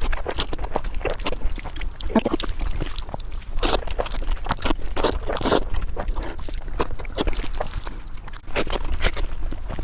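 Close-miked eating sounds of someone chewing braised beef ribs: irregular wet smacks and clicks of the mouth several times a second, over a steady low hum.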